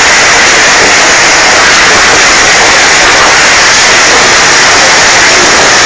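Typhoon-force wind, a loud steady rushing noise that swamps the microphone.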